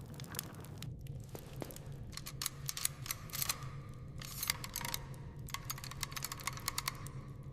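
Rapid, irregular light clicks and taps over a low steady hum.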